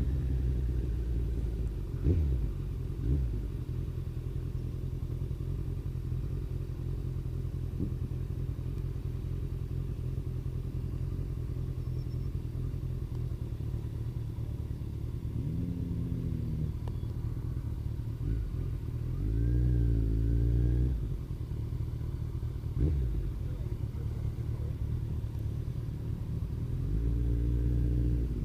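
Kawasaki ZZR1400's inline-four engine running on the road with a steady low rumble. The engine revs up briefly about halfway through, again a few seconds later, and near the end, with a few short knocks along the way.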